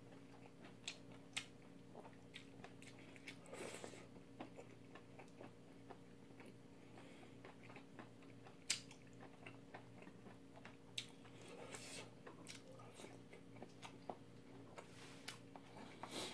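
Quiet chewing of noodles, with scattered small clicks of chopsticks against the bowl and a few brief slurps, over a faint steady hum.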